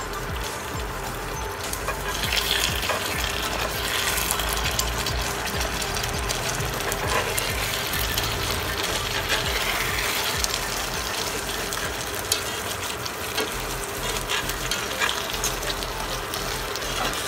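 Soy-sauce and sugar glaze, thickened with cornstarch, sizzling and bubbling around tofu and luncheon meat cubes in a cast-iron skillet. Scattered clicks as chopsticks turn the pieces, one sharper knock about twelve seconds in.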